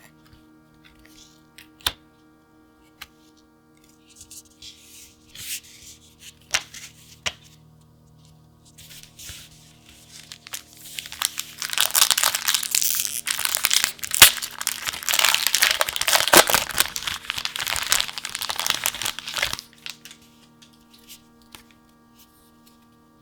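Plastic packaging of a pack of card sleeves torn open and crinkled: a few scattered clicks and rustles, then a loud, dense crackling run of about eight seconds starting near the middle. Soft background music with steady held tones plays underneath.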